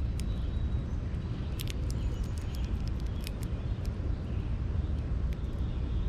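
A steady low outdoor rumble, with scattered sharp clicks from the feeder, a handful in a few seconds, and a few faint high bird chirps.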